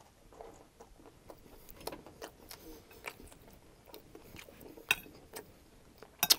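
Close-miked chewing of a mouthful of crispy chicken fried rice: soft, wet mouth sounds with scattered small clicks. Near the end, a metal spoon clinks against the glass bowl as it scoops.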